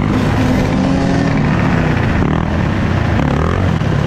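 Several dirt bike engines running at once, overlapping, their pitch shifting up and down as they are throttled.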